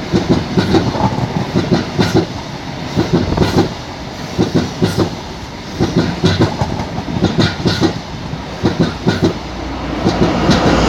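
High Speed Train (InterCity 125) passenger coaches passing close at speed: a loud, continuous rumble with the wheels clacking in quick, repeated groups.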